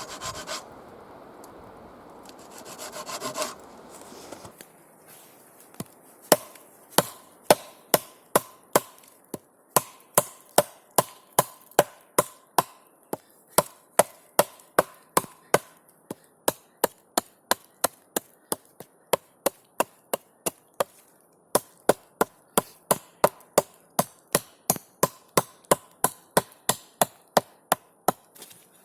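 Scraping on wood for a few seconds, then a tool striking wood in a steady run of sharp knocks, about two blows a second, with a brief pause partway through.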